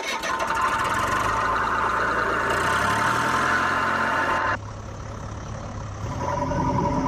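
A vehicle engine running steadily; it drops suddenly in level about four and a half seconds in and changes to a different steady hum about six seconds in.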